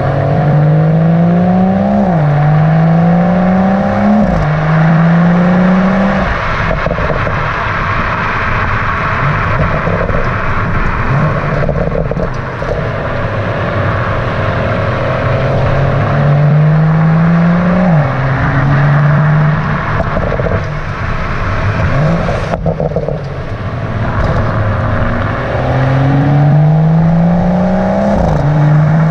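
A 2017 BMW M140i's turbocharged 3.0-litre straight-six under hard acceleration, pulling up through the gears in several runs. Its note climbs and drops sharply at each upshift, with steadier stretches between the runs.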